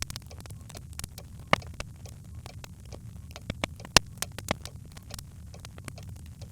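Birchwood fire crackling in a hearth: irregular sharp pops and snaps over a steady low rumble of the flames, with the loudest pop about four seconds in.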